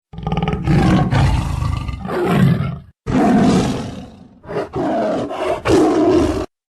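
Wild animal roaring in long, rough calls, cut in abruptly, with a brief break about three seconds in and a sudden stop shortly before the end.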